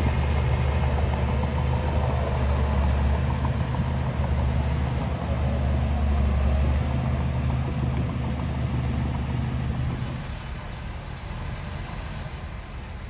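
A heavy diesel earth-moving engine runs steadily with a deep low rumble, then drops away quieter about ten seconds in.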